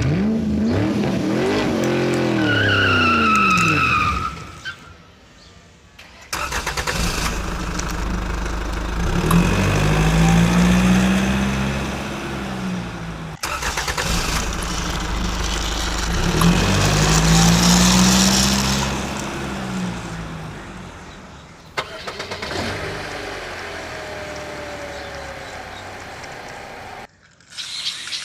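Vehicle engine sound effects: an engine revs up and back down several times, in separate clips joined by abrupt cuts. A short high two-tone sound is heard a few seconds in.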